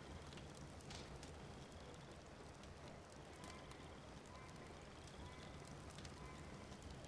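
Wood fire crackling in a fireplace, faint: scattered sharp pops and snaps over a soft steady hiss.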